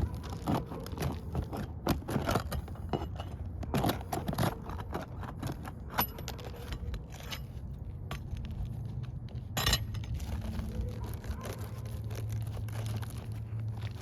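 Roof shingles being lifted and nails worked loose: irregular scrapes, crackles and small metal clinks, with one sharper knock about nine and a half seconds in.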